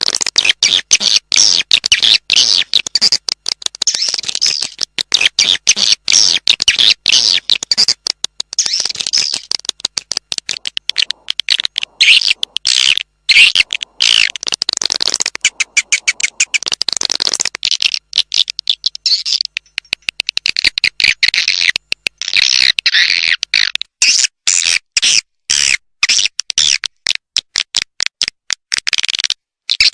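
Swiftlet calling sound: dense, rapid high-pitched twittering chirps, broken by many brief gaps, the lure call played to attract swiftlets to a nesting house.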